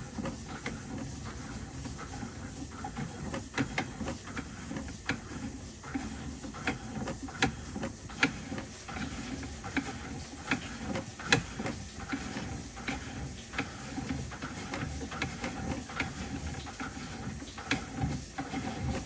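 Push-rod sewer inspection camera being fed into a cast-iron sewer line, its cable and reel making irregular clicks, taps and rattles over a faint steady whine.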